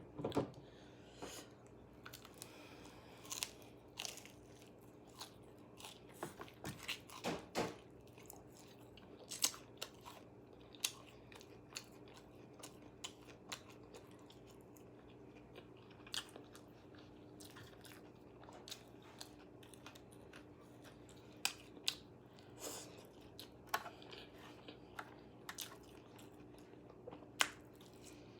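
A person biting and chewing crunchy KFC food close to the microphone, in irregular crunches and bites a second or so apart, over a steady low hum.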